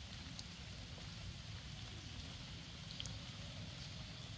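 Steady rain falling on a paved path and leaves, with a couple of sharper drip ticks, one about half a second in and a louder one about three seconds in, over a low rumble.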